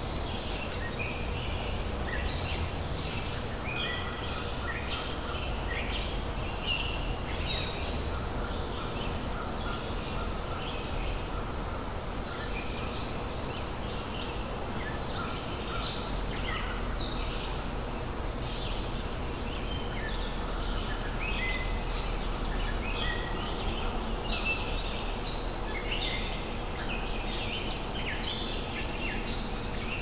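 Several songbirds chirping and calling, many short notes overlapping, over a steady low background rumble and a faint steady hum.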